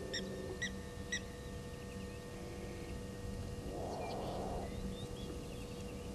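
An unidentified animal call: a single harsh, rasping burst just under a second long about four seconds in, with three short high bird chirps in the first second.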